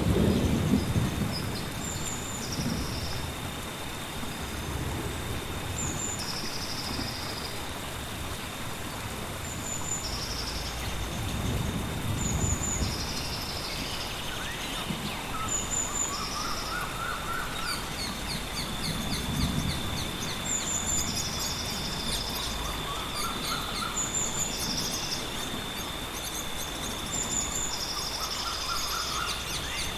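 Steady rainforest rain with bird calls repeating every couple of seconds, a lower warbling call now and then, and a steady high insect hum. Low thunder rumbles come at the start and twice more, around the middle.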